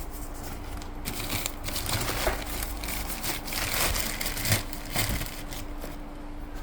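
Crinkling and rustling of packaging as an item is handled and turned over, irregular and loudest about four and a half seconds in, over a steady low hum.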